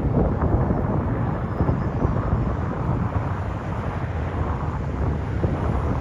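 Jet engines of an Airbus A321 passing, a loud, steady, rumbling roar with a rough crackle.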